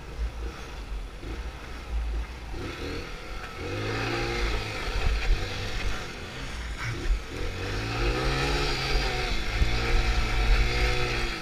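Small single-cylinder Honda Pop motorcycle engine being ridden and revved, the revs swelling up and falling back several times over a second or two each from about three seconds in. Steady low wind rumble on the microphone runs underneath.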